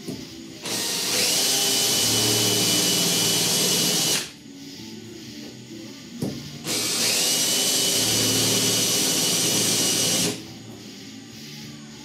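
Power drill boring 1/8-inch pilot holes in the truck cab's sheet-metal roof: it runs twice, about three and a half seconds each time, its whine rising as it spins up and then holding steady.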